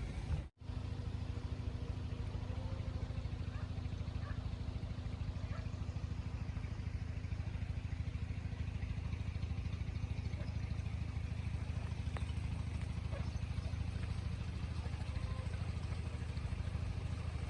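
A steady, low motor drone that runs on without change, after a brief cut-out of the sound about half a second in.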